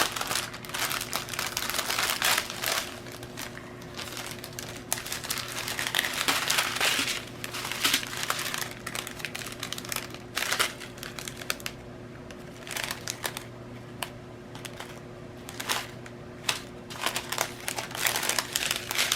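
Plastic packets of diamond-painting drills being handled, crinkling and rustling unevenly in the hands, louder in patches. A faint steady low hum runs underneath.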